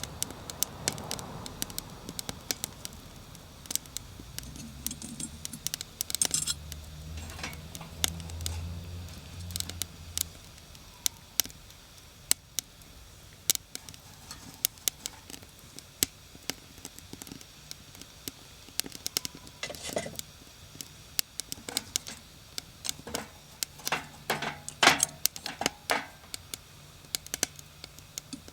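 Wood fire crackling in a fire pit, with irregular sharp pops and snaps, clustering around 20 seconds in and again near the end. A faint low hum sits under it during the first third and near the end.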